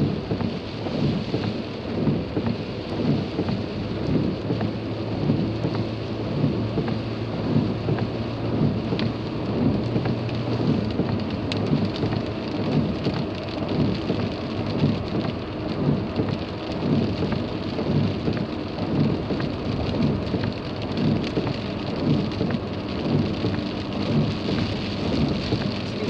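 Rain on a moving car and tyres hissing on a wet road, heard from inside the cabin: a steady dense wash with a regular low pulsing a little over once a second.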